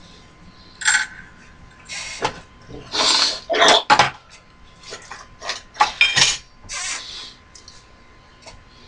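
A run of short clatters and scrapes of hard objects being handled, about a dozen over several seconds, over a faint steady tone.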